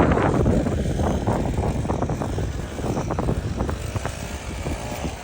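Strong gusty wind buffeting the microphone, a loud irregular low rumble that eases slightly after about a second.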